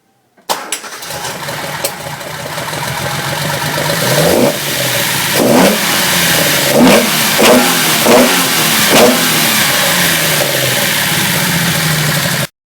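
Nissan L30 straight-six race engine on triple Mikuni 44PHH carburettors catching suddenly about half a second in and settling into a loud, lumpy-free running idle that rises over the next few seconds. The throttle is blipped about six times, each a quick rise and fall in revs, before the sound cuts off abruptly near the end.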